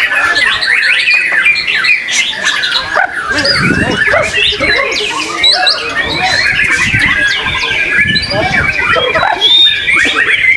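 Several caged white-rumped shamas (murai batu) singing at once in competition, a dense, continuous jumble of overlapping whistles, trills and chattering phrases. Murmuring voices from the crowd lie underneath.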